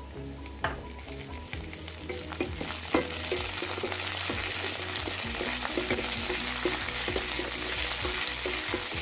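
Curry leaves and garlic cloves sizzling in hot oil in a nonstick pan, with a spatula scraping and tapping as they are stirred. The sizzle gets louder about three seconds in.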